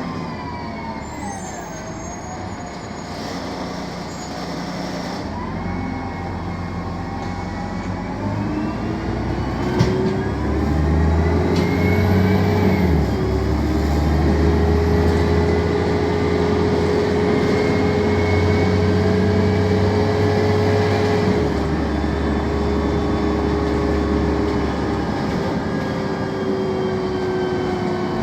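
BredaMenariniBus M 240 LU city bus running, its Mercedes OM 906 LA turbodiesel straight-six and Voith automatic gearbox whining. The whine falls as the bus slows, then rises as it pulls away about ten seconds in, with a gear change near thirteen seconds, and settles into a steady whine as it runs on.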